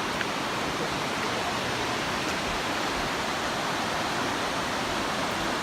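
Steady roar of rushing water from a mountain waterfall or stream, an even unbroken noise.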